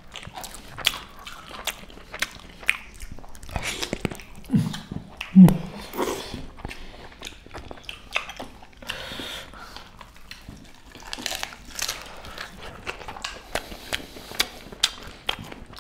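Close-miked eating sounds: chewing and biting on pork and rice, with wet mouth smacks and scattered clicks. Two brief low hums or grunts come about five seconds in.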